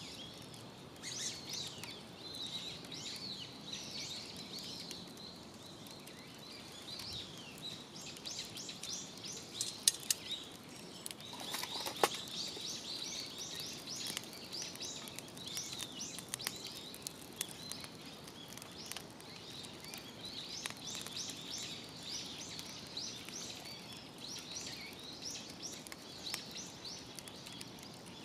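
Small birds chirping over and over, with a few sharp cracks about a third of the way in and again a little later.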